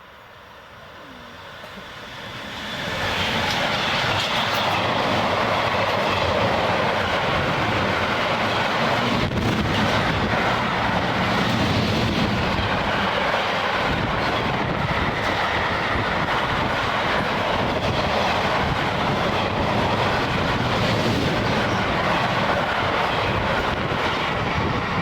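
Freight train passing, its wheels running loud and steady on the rails after building up over the first three seconds.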